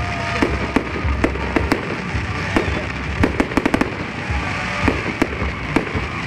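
Fireworks salute: aerial shells bursting with sharp bangs at uneven intervals, including a quick run of about six cracks a little past the middle, over steady background noise.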